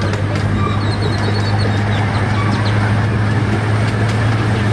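Miniature park train running along its track: a steady low engine drone with wheel and rail rattle and scattered clicks, and a few short high chirps above it.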